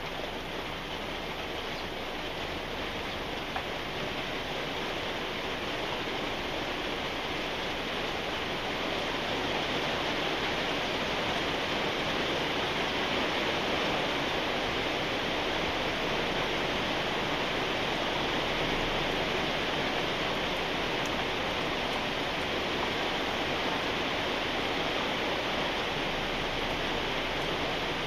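Steady rain falling, an even hiss that grows a little louder over the first ten seconds and then holds.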